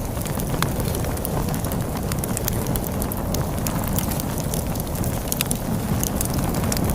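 Log fire crackling with frequent sharp pops and snaps over a steady low rumble of storm wind.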